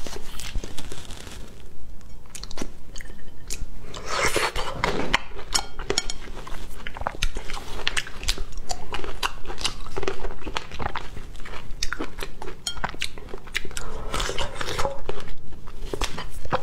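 Close-miked chewing and biting of fresh cherries, with many short, sharp mouth clicks throughout.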